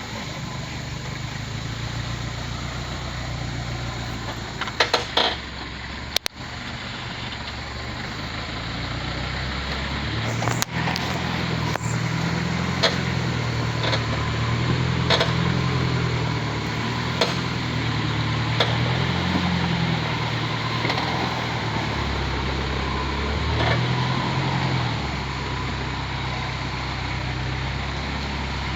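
Truck engine running at low revs, its pitch rising and falling as the load changes, with occasional sharp knocks and rattles from the body jolting over a rough road.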